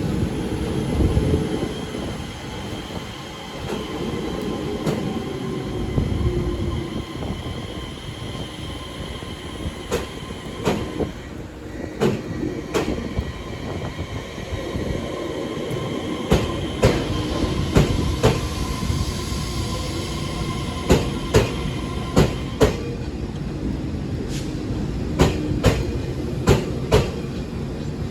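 Taiwan Railways train running past at a station: a steady mechanical hum with held tones, and from about a third of the way in the wheels clicking over rail joints, the clicks coming in close pairs and growing more frequent toward the end.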